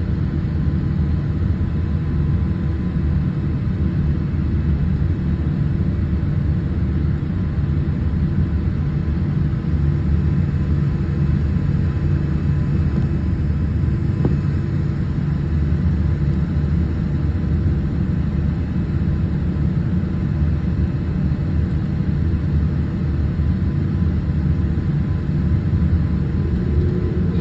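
Steady cabin noise inside an ANA Boeing 787 airliner: an even low rumble of the engines and airflow with a faint steady whine above it.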